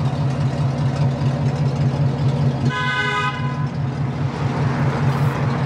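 Pickup truck engine idling steadily, with one short car-horn toot about three seconds in.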